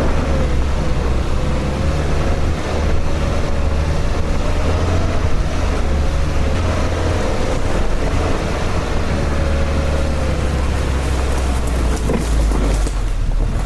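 An engine running steadily with a deep rumble and a faint wavering whine above it.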